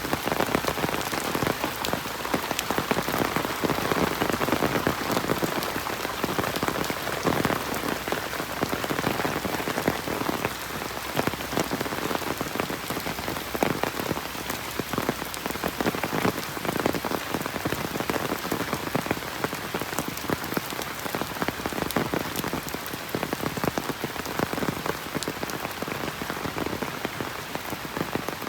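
Steady heavy rain falling on a road and foliage, a dense hiss with many close drops pattering.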